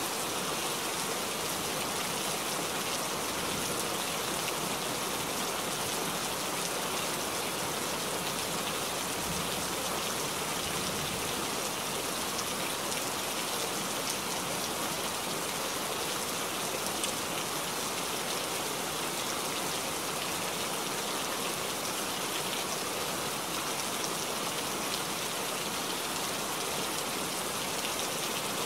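Steady rain falling: an even hiss of many small drops, with no thunder.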